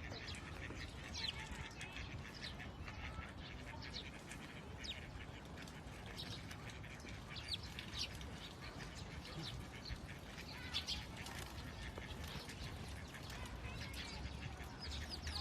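A flock of birds calling, with many short, high chirps overlapping over a steady low background noise.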